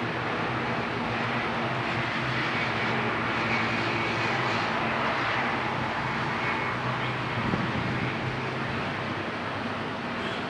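Airbus A320 jet engines running steadily as the airliner approaches to land, a continuous rushing noise with a low hum under it.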